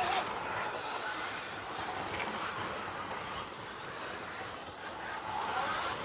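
1/10-scale RC stadium trucks racing on an off-road track: a steady wash of motor and tyre noise, with motor whines rising and falling in pitch as the trucks speed up and slow down.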